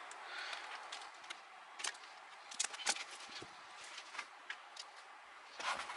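Faint, scattered small clicks and taps over a low hiss, typical of hands handling a car's plastic ignition wiring harness and its connectors.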